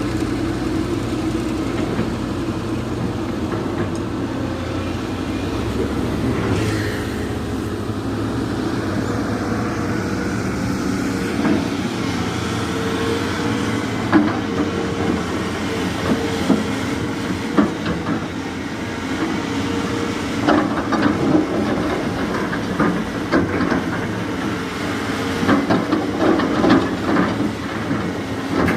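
Volvo EC480 excavator working: its diesel engine runs steadily under load, with a constant hum. From about a third of the way in come frequent clanks and knocks of the bucket and boom at work.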